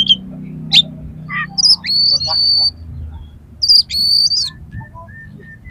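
Oriental magpie-robin (kacer) singing harsh song material. Sharp sweeping calls give way to two clear held whistles in the middle, then a run of short, evenly spaced notes near the end.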